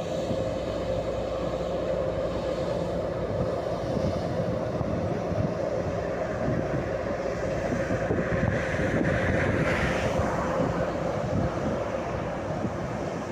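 Adtranz class 220 diesel-electric locomotive running with a steady hum and low rumble, with wind buffeting the microphone. A louder hissing swell comes about eight to ten seconds in.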